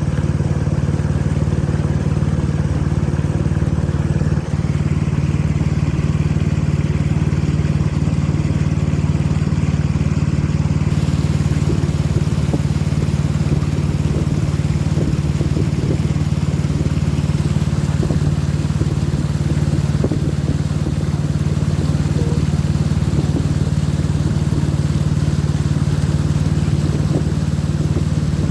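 Boat engine running steadily at constant speed, a continuous low hum.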